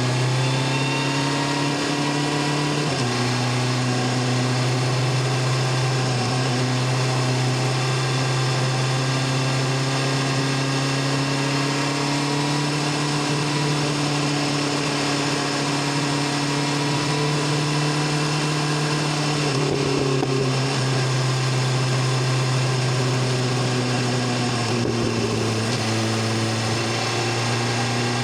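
BMW S1000RR inline-four engine and exhaust pulling at road speed. Its pitch rises in the first seconds, steps down about three seconds in, then holds nearly steady, over a steady hiss of wind and road noise.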